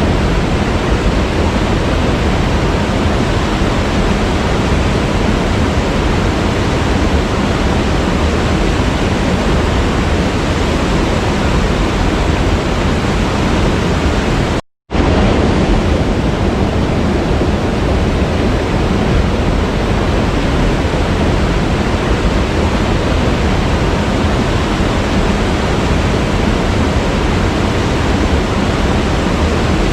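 Waterfall rushing as a steady, dense wash of water noise. About halfway through, the sound cuts out completely for a split second, then resumes unchanged.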